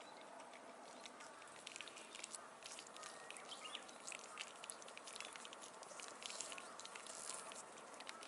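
Faint crackling of a wood campfire: many small irregular pops and clicks over a low hiss, growing busier after the first second or so.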